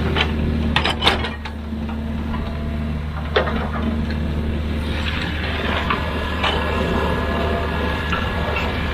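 A heavy construction machine's engine running steadily with a deep drone, with several sharp metallic knocks in the first second or so and another about three and a half seconds in.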